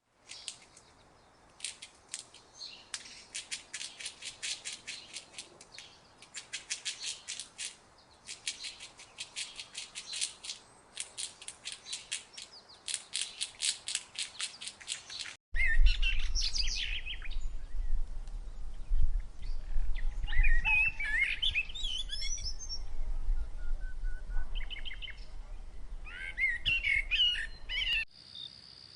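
Animal calls: for about fifteen seconds, fast trains of sharp high chirps in repeated bursts. Then, after an abrupt cut, varied warbling bird calls over a low hum.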